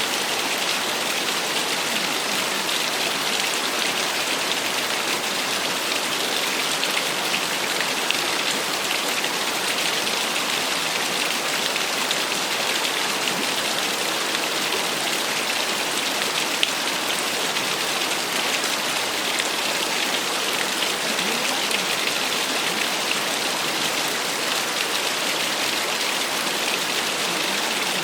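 Small waterfall splashing steadily: an even, unbroken rush of falling water, brightest in the upper range.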